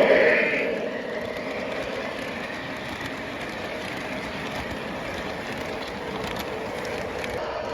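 O gauge model train running along the track: a steady rolling rumble with faint clicks. It is louder at the very start and settles to an even level within the first second.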